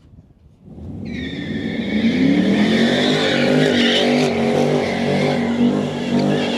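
A car engine revving hard while the rear tyres spin and squeal in a burnout. It comes in about a second in, climbs in pitch, then holds at high revs with the tyre squeal running over it.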